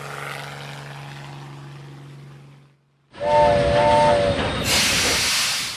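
A steady low hum fades out over the first three seconds. After a brief silence, a steam train whistle sounds two short toots on a chord, followed by a long hiss of released steam.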